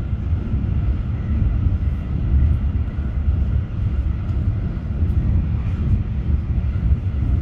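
Interior noise of a passenger train running along the line, heard inside the carriage as a steady low rumble.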